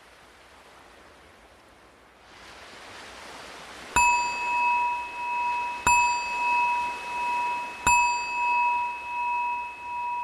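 A meditation bell struck three times about two seconds apart, each ring lingering with a slow wavering, signalling the end of the silent practice. Under it is a soft wash of ocean waves.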